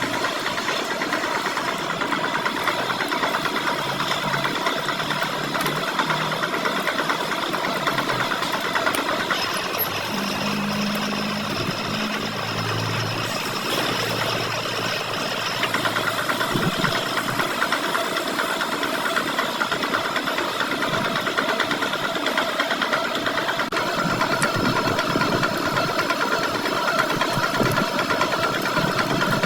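Metal lathe running steadily while machining a steel shaft, with several steady whining tones over the cutting noise. A low hum comes and goes in the middle.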